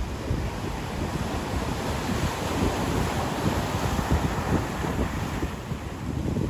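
Ocean surf breaking and washing on a beach, with wind buffeting the microphone.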